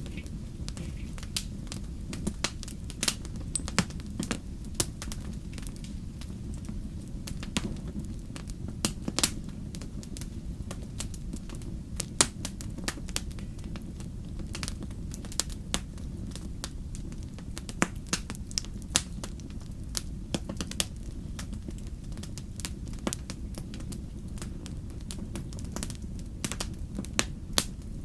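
Wood fire burning in a fireplace: a steady low rumble of the flames under irregular sharp crackles and pops, several of them louder snaps.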